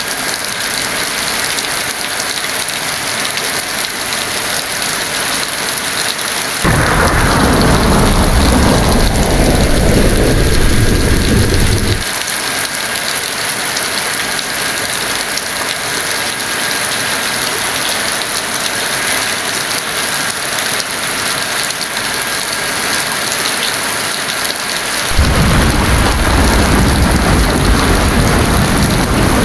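Heavy rain falling steadily. Thunder rolls twice over it, once about a quarter of the way in and again near the end. Each roll starts suddenly, and the first ends abruptly after about five seconds.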